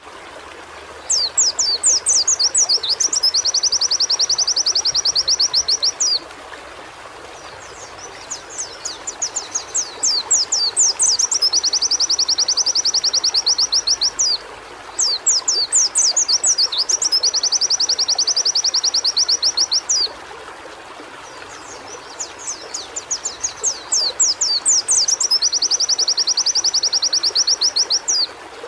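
White-eye (pleci) singing: four song bouts, each a run of quick, high falling notes leading into a long, fast, even trill, with short pauses between bouts.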